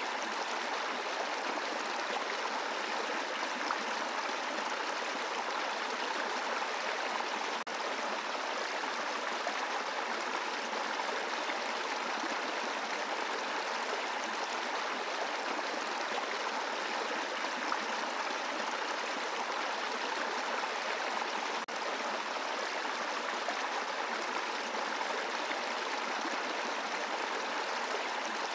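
Shallow brook flowing over a bed of rocks: a steady rush of water.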